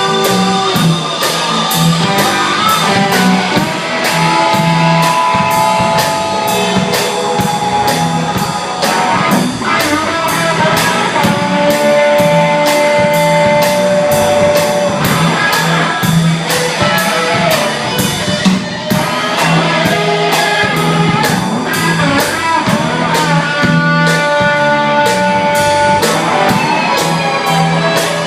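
Live blues-rock band jam: guitar playing held lead notes over a repeating low riff and a steady drum beat of about two strokes a second.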